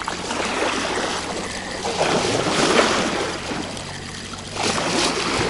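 Wake waves from a large passing boat washing and splashing against the shore, swelling about two seconds in and again near the end.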